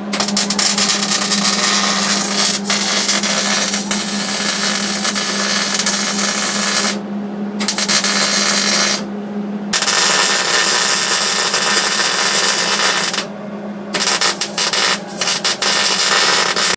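Electric power tool running loudly in long runs, with brief pauses about seven, nine and thirteen seconds in. A steady low hum goes with it through the first half.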